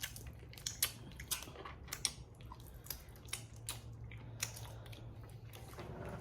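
Close-up eating of Cajun crawfish: wet chewing and lip smacking, heard as a string of short, irregular sharp clicks.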